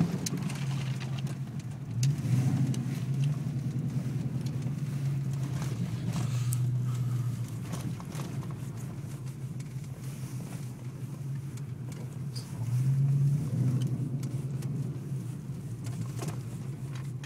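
Ford Mustang 5.0 V8 running while the car is driven, heard from inside the cabin as a steady low drone that swells louder about two seconds in and again about three-quarters of the way through.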